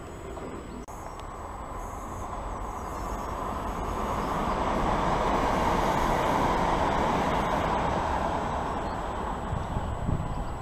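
Southern passenger train running along the rails through the station: a rumble of wheels on track that builds to its loudest about halfway through, then eases slightly.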